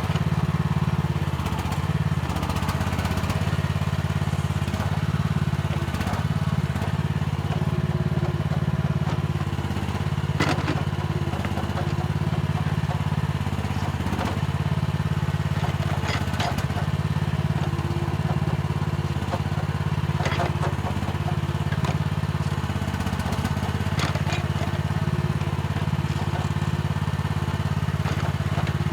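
Mini excavator's diesel engine running steadily as it digs, with a handful of sharp knocks from the bucket working the ground every few seconds.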